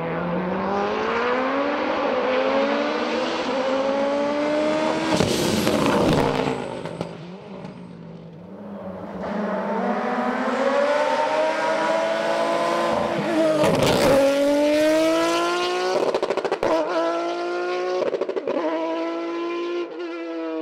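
Race car engine accelerating hard up a hillclimb course, its pitch climbing and dropping back at each of several gear changes. It grows loudest about 14 seconds in as it passes close by, then keeps pulling away through further shifts.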